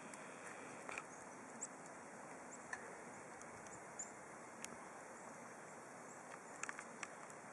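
Faint steady hiss of wind-driven snowstorm air, with a few short, high chirps from birds scattered through it, roughly one every second or two.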